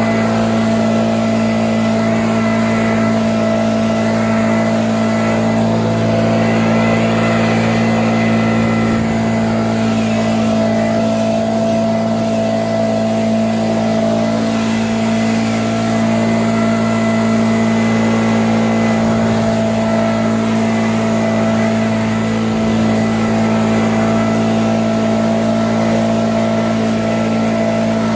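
An engine running steadily at one constant speed, its pitch unchanging.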